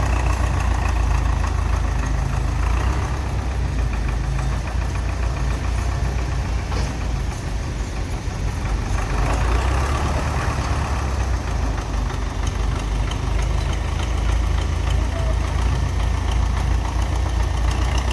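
Belarus tractor's diesel engine running steadily at low revs, a constant low rumble with an even knock of firing strokes.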